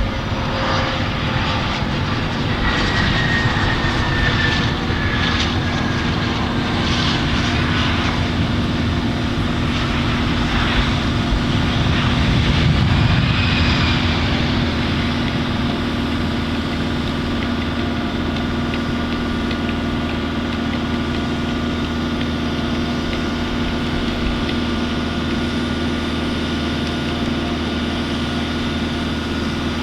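CRJ-200 regional jet's turbofan engines running as the airliner lands and rolls out. A steady engine whine over a rumble, with one tone falling in pitch in the first few seconds; the sound is loudest a little before the middle.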